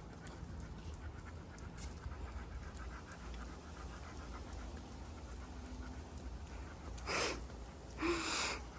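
Golden retriever panting quietly, with two louder breathy huffs near the end.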